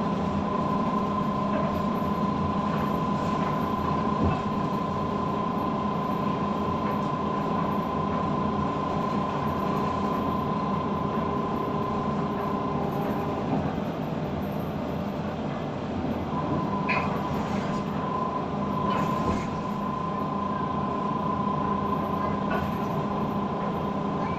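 Steady mechanical running noise with a constant hum and a held tone; the tone drops out for a few seconds past the middle.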